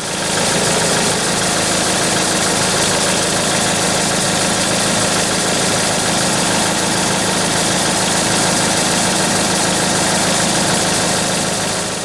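Kubota SL60 tractor's diesel engine idling steadily.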